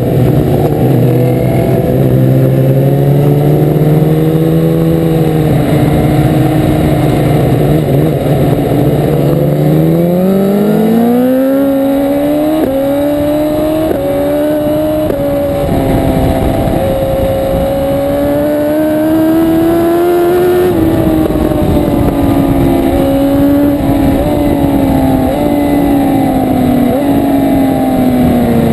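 Superbike engine heard from onboard the motorcycle, running steadily at low revs, then accelerating through several quick gear changes from about ten seconds in and easing off again near the end.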